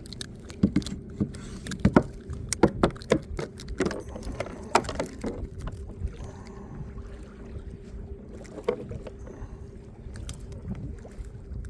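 Irregular knocks, taps and rattles on a fishing kayak as a freshly caught bluefish is brought aboard and handled, busiest in the first half.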